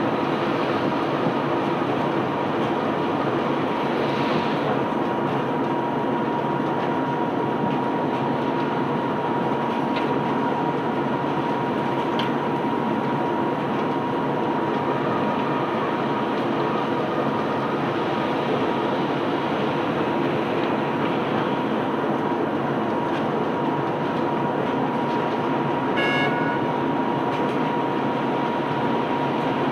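Sand-unloading conveyor belt and its machinery running steadily: a continuous rumbling rush with a steady high whine over a low hum. A short high-pitched sound cuts in near the end.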